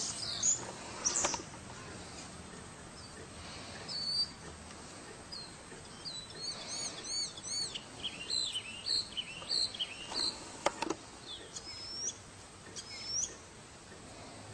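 Small birds chirping and calling: scattered short, high chirps throughout, with a quick run of repeated arched notes about halfway through.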